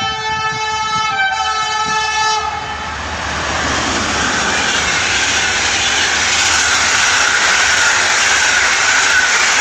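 Newag Griffin EU160 electric locomotive sounding its horn, a chord of steady tones that shifts once about a second in and stops after about two and a half seconds. Then comes the loud, steady noise of the locomotive and its passenger coaches passing close by.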